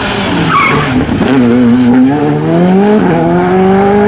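Rally car accelerating hard: the engine's pitch climbs steadily, drops with a quick upshift about three seconds in, then climbs again in the next gear.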